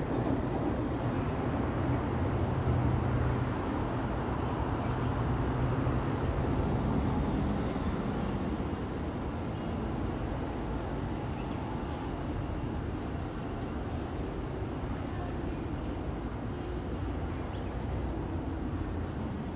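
Electric train running along the tracks below, a steady rumble that slowly grows fainter as it pulls away.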